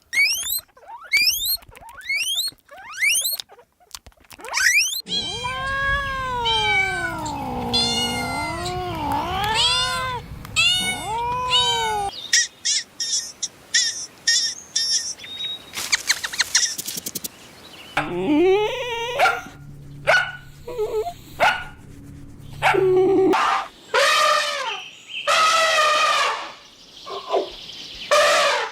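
A series of different domestic animal calls, one clip after another. First come quick rising chirps, then a long wavering yowl from about five seconds in, then clicks and short chirps, and more pitched calls near the end.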